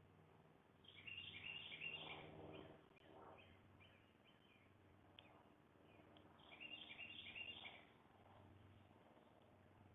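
Faint songbird calls: two quick runs of short, repeated chirps, one about a second in and another about six and a half seconds in.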